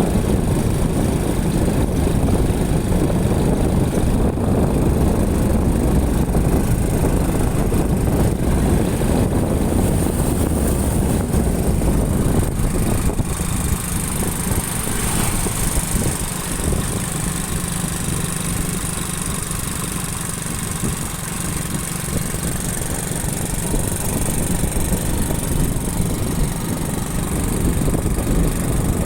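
Motorcycle running while being ridden, a steady engine and road rumble that eases somewhat about halfway through and builds again near the end.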